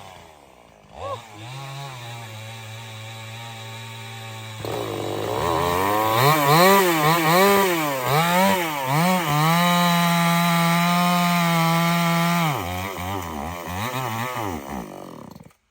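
Stihl 070 two-stroke chainsaw running: it idles, is revved up and down several times, is held at high speed for a few seconds, then drops back and stops abruptly near the end.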